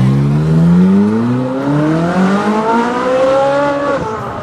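Sports car engine accelerating hard, its pitch climbing steadily for about four seconds, then dropping abruptly near the end.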